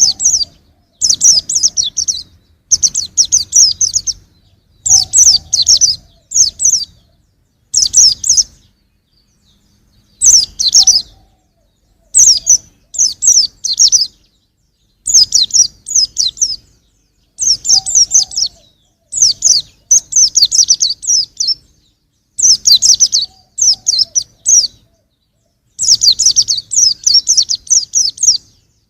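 Young white-eye (pleci) singing: bursts of rapid, high chirping twitters, each phrase about a second long, repeated with short pauses between them.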